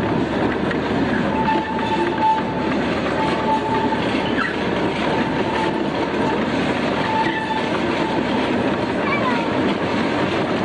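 A small excursion train running along the track, heard from its open passenger car: steady rumble and clatter of the cars, with a faint high wheel squeal coming and going.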